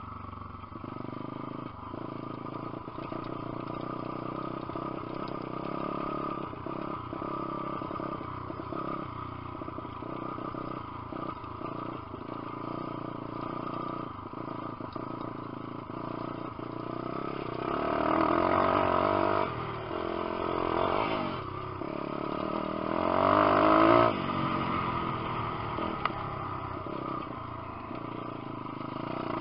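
Lifan 150cc single-cylinder four-stroke pit bike engine running as the bike is ridden, with some clatter. The engine note swells louder twice, about 18 and 23 seconds in, its pitch rising and falling.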